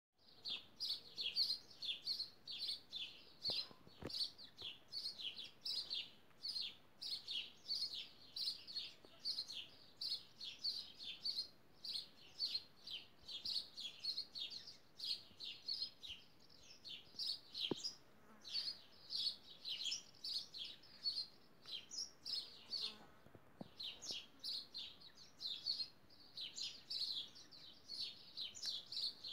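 A small bird chirping over and over, short high chirps about three a second, with a couple of brief pauses.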